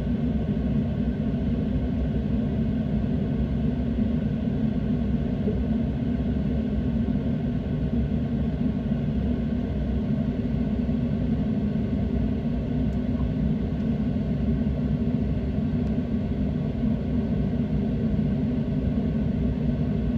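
Steady low rumble of a boat's engine running underway, unchanging throughout.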